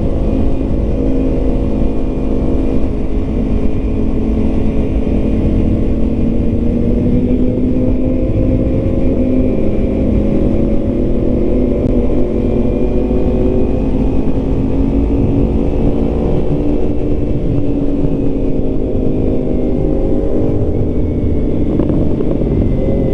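Yamaha MT-09 inline-three engine running under way, its pitch rising and falling gently with the throttle, over a steady low rumble of wind on the helmet microphone.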